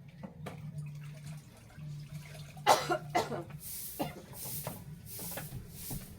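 A few sharp knocks and clatters of things being handled, then four short hissing sprays from a cleaner spray bottle, over a low steady hum.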